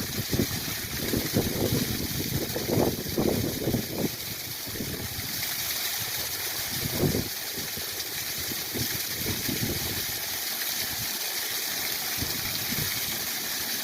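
A small waterfall rushing steadily, with irregular low gurgles and splashes of water over it.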